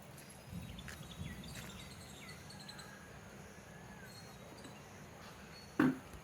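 Faint scattered bird chirps over steady background noise, with a sudden loud knock near the end.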